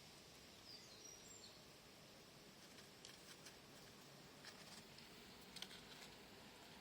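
Near silence: faint steady hiss, with a couple of brief faint high chirps about a second in and a few soft clicks later.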